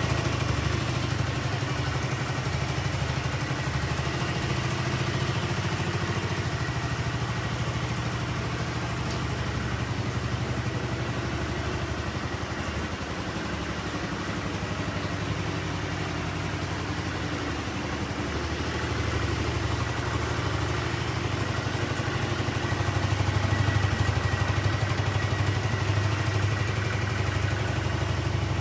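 Yamaha Majesty 125 scooter's carbureted single-cylinder four-stroke engine idling steadily, getting a little louder about two-thirds of the way through.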